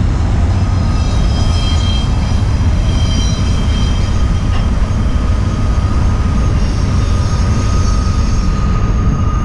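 Steady low rumble with a faint steady whine above it: the running noise of a moving vehicle.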